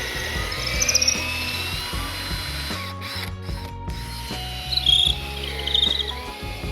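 Power drill driving screws. The motor whine drops in pitch under load and rises again, twice, with rapid clicking.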